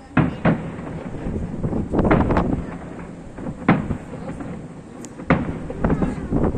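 Fireworks display: shells bursting with a series of sharp booms and a low rumble between them. Two come close together at the start, a cluster follows about two seconds in, then single bangs come at intervals of one to two seconds.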